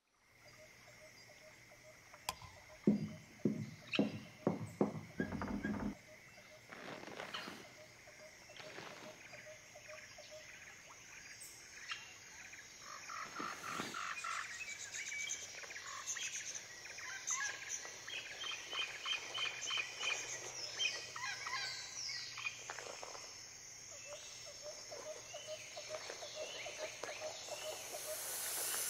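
Night-time outdoor ambience: a steady high insect trill runs throughout, with bird calls chirping over it. Between about three and six seconds in comes a run of about seven loud, low pulses.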